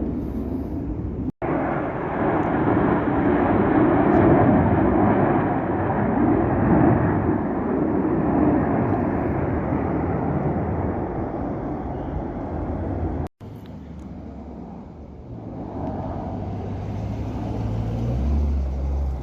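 Fighter jet passing overhead: a loud, rushing roar that swells within a couple of seconds and then slowly fades. After a sudden cut about 13 seconds in, a quieter rumble with a steady low hum.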